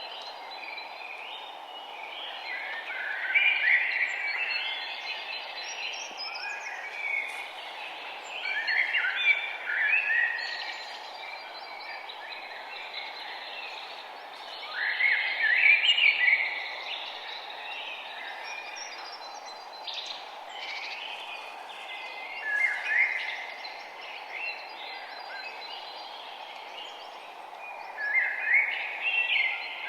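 Birdsong: a bird repeats a short song phrase about every six seconds over a steady background hiss.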